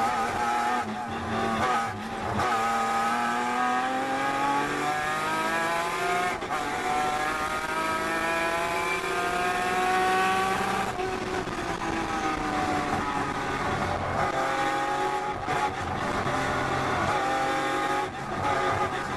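Datsun 240Z race car's straight-six engine heard from inside the cockpit at full throttle, its pitch climbing steadily for about nine seconds after a short break near the start. About eleven seconds in it drops suddenly to a lower, steadier note, with a couple of brief breaks near the end.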